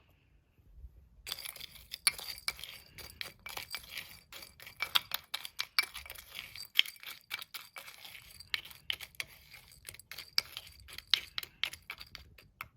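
Dry dog food kibble clattering into a bowl: a dense run of small hard clicks and clinks, starting about a second in.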